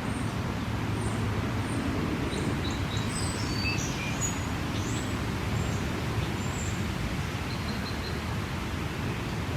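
Outdoor ambience: a steady low rumble, with small birds chirping in short high calls, most of them in the first half.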